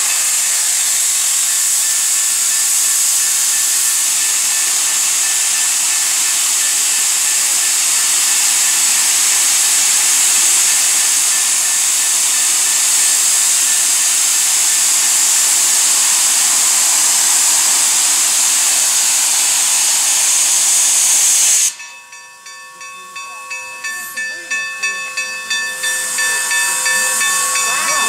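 Steam locomotive 261 hissing loudly and steadily as it vents steam. After about twenty seconds the hiss cuts off suddenly. A ringing bell is then heard, struck about twice a second and growing louder.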